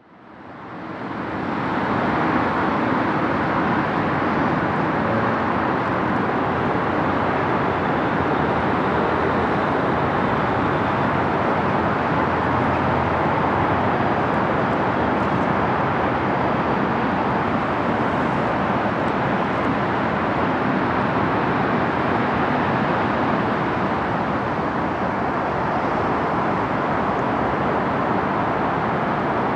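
Steady, even background noise of traffic, fading in over the first two seconds and then holding level.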